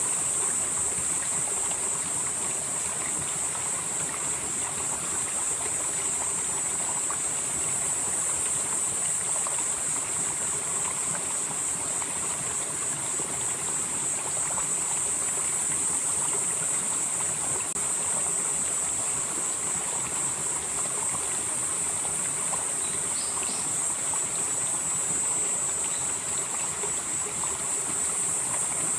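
Valley stream flowing steadily, with water rushing over rocks. A high, steady insect chorus sits over it, and its upper part swells and fades every few seconds.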